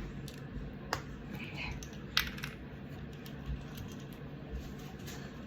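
Light clicks and clinks of small hard objects, a sharp one about a second in and another just after two seconds, over a steady low hum.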